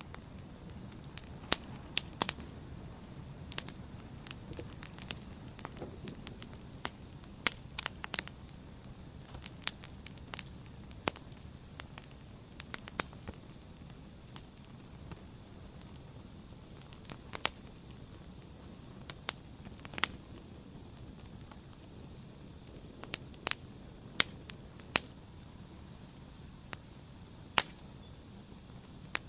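Wood fire burning in a fireplace, crackling with sharp, irregular pops over a low, steady rumble of flame.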